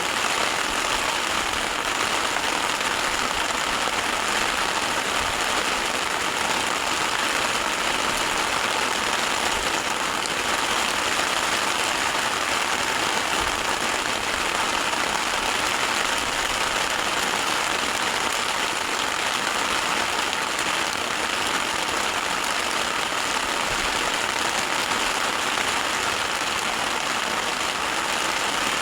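Heavy rain falling steadily, an even hiss that neither builds nor fades.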